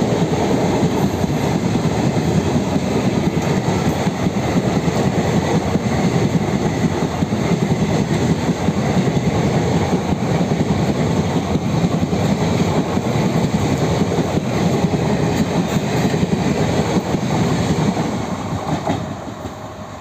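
Express train coaches rolling past, wheels rumbling and clattering on the rails. The noise fades away near the end.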